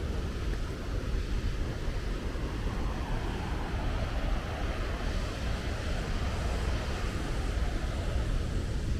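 Waterfall roaring: a steady rush of falling water with a deep rumble underneath, unchanging throughout.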